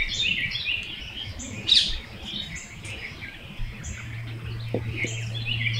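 Several small birds chirping, with short, quick notes repeating over one another. A low steady hum comes in about two-thirds of the way through.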